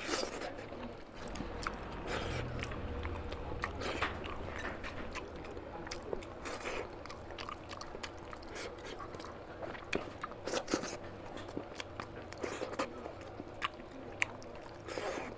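Close-up eating sounds of a man chewing a mouthful of oily mutton fat curry and rice, with many irregular mouth clicks and smacks.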